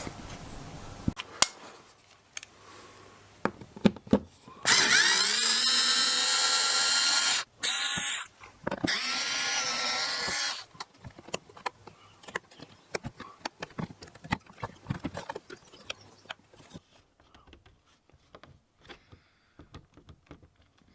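A cordless drill-driver undoing the Torx screws of a plastic under-bumper cover, in three runs: the first long and rising in pitch as the motor spins up, then a short burst and a second longer run. It is followed by a scatter of small clicks and taps as the screws and plastic are handled.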